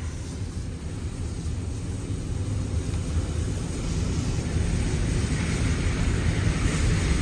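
Steady low rumble of a vehicle in motion, building slowly louder.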